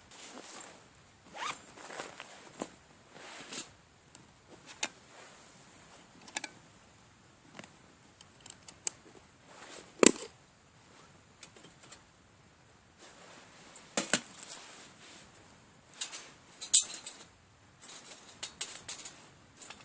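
Intermittent handling noises: short rustles and small clicks, with one sharp knock about ten seconds in and busier clusters of rustling a few seconds later.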